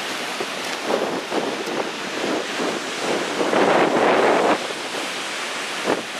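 Large storm waves on Lake Michigan breaking and surging, mixed with strong gusty wind buffeting the microphone. A louder surge comes about three and a half seconds in and lasts about a second.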